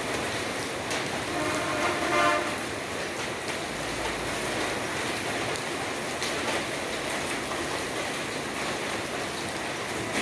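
Steady rainfall hissing, with a brief pitched tone about one and a half to two and a half seconds in.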